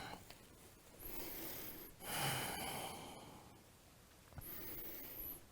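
A person breathing slowly and audibly: three breaths of about a second each, as the body settles into a downward-dog yoga pose.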